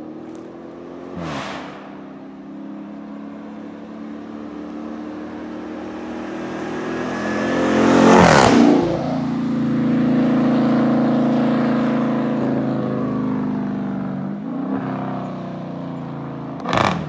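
A car's engine at high revs comes closer and passes close by about eight seconds in, its note dropping in pitch as it goes past. The engine then drones on as the car pulls away and fades slowly. A short sharp burst of sound comes near the end.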